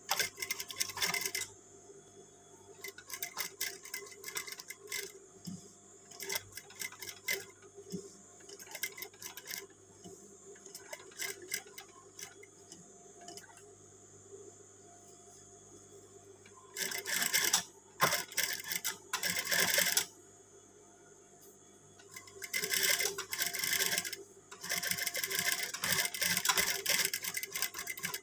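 Sewing machine stitching in several short runs of rapid clicking, the longest near the end. Between runs there are sparser handling clicks, with a faint steady hum underneath.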